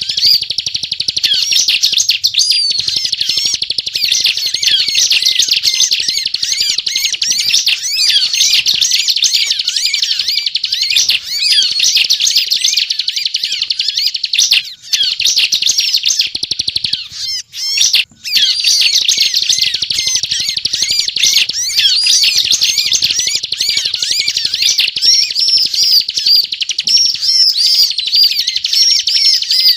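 Ciblek (prinia) singing vigorously in the rapid, continuous 'ngebren' style: a dense run of fast, high chirps with a couple of brief pauses about halfway through.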